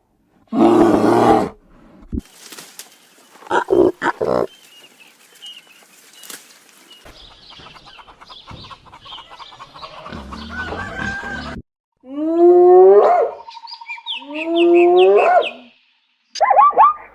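Calls from several different animals, one after another: a loud rough call near the start, then short bursts and a quieter stretch, two loud rising calls about three-quarters through, and a quick run of short repeated calls near the end.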